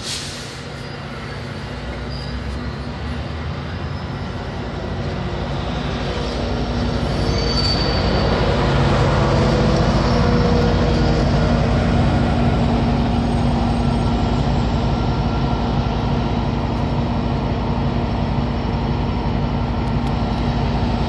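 AMT commuter train rolling along the tracks into the station. Its rumble and rail noise build over the first eight seconds as it comes closer, then hold loud and steady with a constant low hum.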